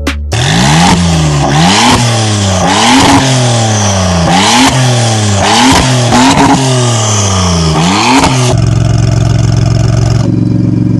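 Maserati MC20's twin-turbo V6 breathing through a PER aftermarket racing exhaust, revved in repeated blips, the pitch rising and falling about once a second. It settles to a steady idle about eight and a half seconds in.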